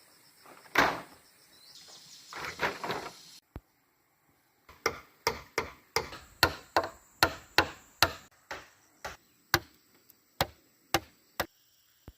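A run of about fifteen sharp chopping strikes on wood, two to three a second, spacing out toward the end. Before them come two rougher scraping sounds and a single knock.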